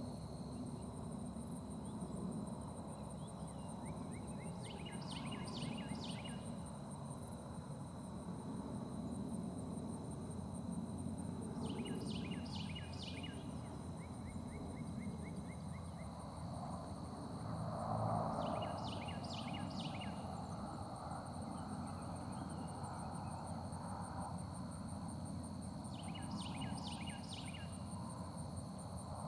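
A songbird repeating a short song of three or four rapid down-sweeping notes, about once every seven seconds, over a steady high insect trill.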